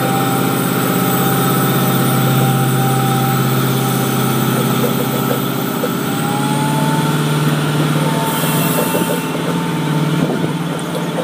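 Diesel-hauled passenger train of LHB coaches passing close by: a steady engine drone, rising a little in pitch about six seconds in, with the wheels clicking over the rail joints.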